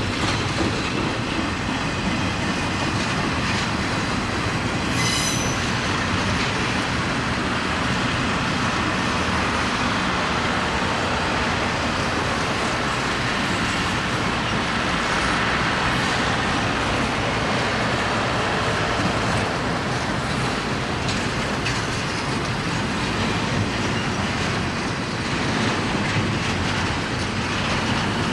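Railroad cars rolling steadily past, with a sharp, brief high wheel squeal about five seconds in and a fainter squealing tone around the middle.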